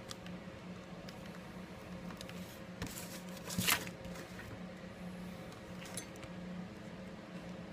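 Small handling noises from phone repair work at the bench: a few faint clicks and one short rustle or scrape about three and a half seconds in, over a steady low hum.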